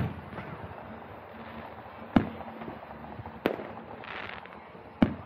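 Aerial fireworks shells bursting at a distance: a bang right at the start, then three more sharp bangs spaced about a second and a half apart, with a short crackling hiss about four seconds in.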